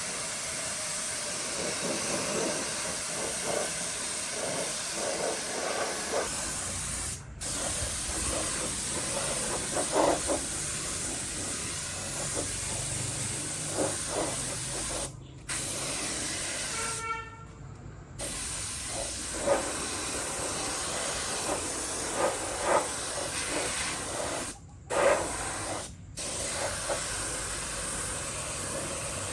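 Steady hiss of air or liquid spraying, stopping briefly several times.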